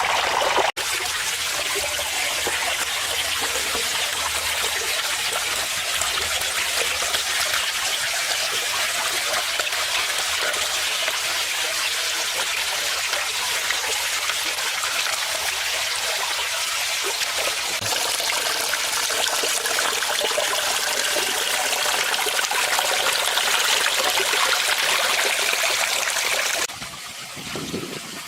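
Water from a small garden pond waterfall splashing and trickling steadily into the pond. It drops suddenly to a quieter level near the end.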